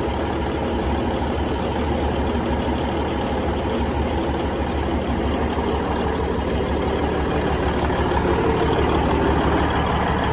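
Budd RDC's Cummins 855 diesel engine idling steadily on a test run after its transmission oil cooler was replaced.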